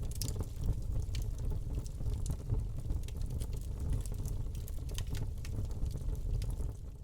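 Wood fire crackling in a fireplace: a steady low rumble of flames with many small irregular pops and snaps, fading down at the very end.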